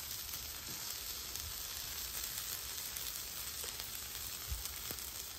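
Eggs, diced chorizo potatoes and peppers frying on a hot flat-top griddle, a steady sizzle.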